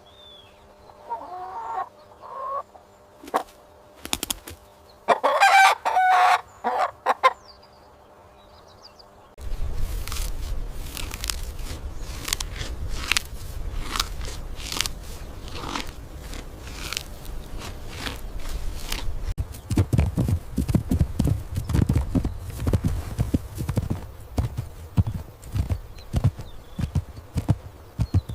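Chickens calling: short clucks, then a long, loud call about five seconds in that fits a rooster crowing. About nine seconds in the sound cuts to a steady low rumble with many sharp clicks and knocks.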